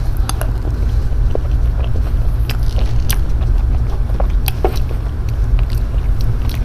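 Close-miked chewing and wet mouth sounds of eating soft cream cake with chewy tapioca pearls, with scattered sharp clicks as a plastic spoon scoops from the box. A steady low rumble runs underneath.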